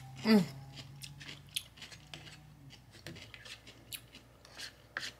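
Close-miked chewing of a pickle: small wet clicks and crunches from the mouth, with a short falling hum-like vocal sound about a third of a second in. A plastic fork scrapes across a paper plate later on.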